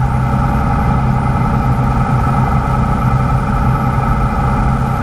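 Cabin drone of a 1960 Cessna 172's Continental six-cylinder engine and propeller, running steadily at reduced power during the approach descent.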